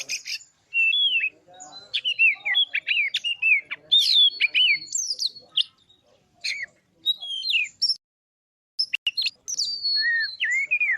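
Oriental magpie-robin (kacer) singing: a fast run of loud, varied whistled notes, many sliding down in pitch, with a brief pause about eight seconds in.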